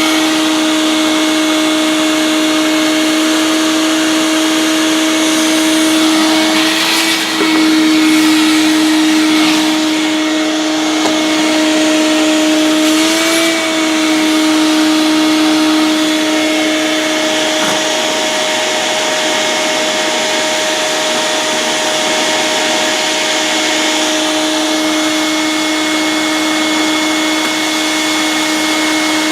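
Vacuum cleaner running with a steady motor whine. Twice, about a quarter of the way in and again just before halfway, its pitch rises briefly and settles back.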